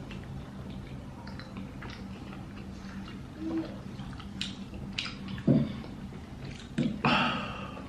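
Chewing and small wet mouth clicks from people eating sushi rolls. About five and a half and seven seconds in come short hummed 'mm' sounds from the tasters, the one at seven seconds the loudest.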